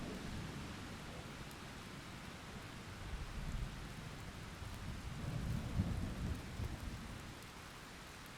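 Thunderstorm: steady rain hiss with rolling thunder. The thunder rumbles low and swells twice, most strongly about two-thirds of the way through, then fades to rain alone near the end.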